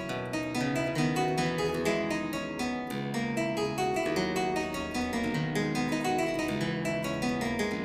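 Instrumental keyboard music: many quick notes over a moving bass line, with no voice.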